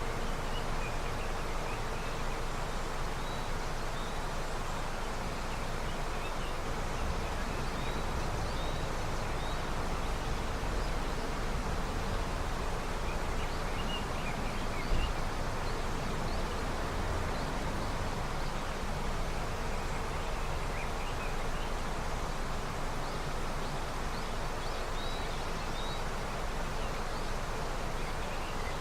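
River of early snowmelt flowing, a steady rush of water, with faint high chirps scattered over it.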